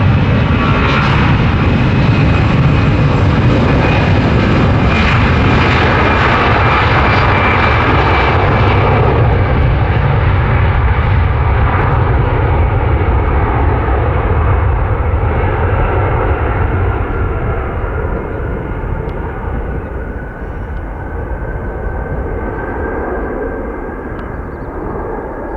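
Twin-engine jet airliner's engines, loud at first, then dulling and fading as the aircraft moves away.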